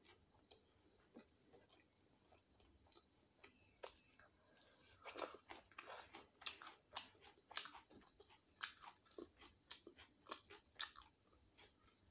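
Close-up chewing of puri and chole (chickpea curry): a quick run of short, clicky wet mouth sounds that starts about four seconds in and goes on to near the end, with only faint sound before it.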